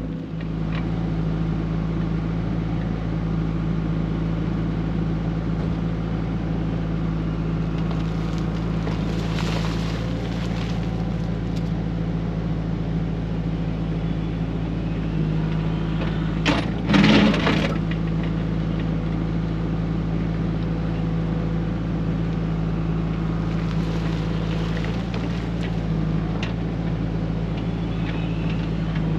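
XCMG XE55U mini excavator's diesel engine running steadily while digging. A brief loud scrape a little past the middle, the loudest moment, with fainter scraping near the first third and near the end.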